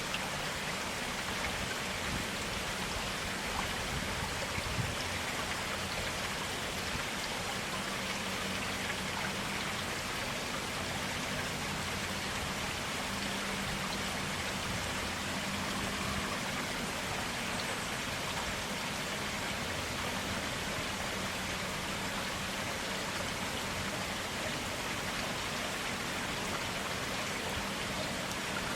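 Clear stream water flowing steadily, a constant even rush and babble.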